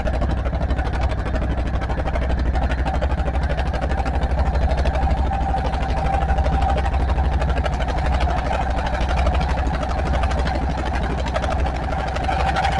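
An engine idling steadily, with a deep rumble and a fast, even pulse.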